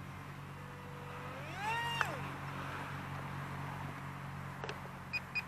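A small RC plane's electric motor holds a steady whine, then spools up sharply to a higher pitch and cuts off, its pitch falling away as it slows. A couple of short high beeps come near the end.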